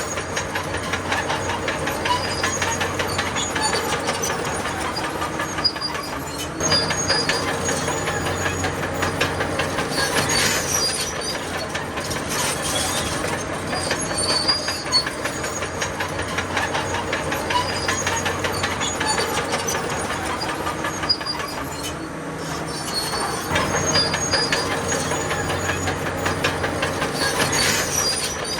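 Crawler bulldozer working: its diesel engine runs steadily under the rapid clanking of its steel tracks, with short high-pitched track squeals recurring several times.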